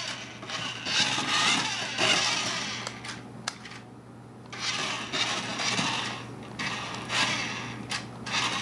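Remote-control Lightning McQueen toy car's small electric drive motor and gears whirring in three bursts as it is driven, with a pause of about a second before the middle burst and another near the end.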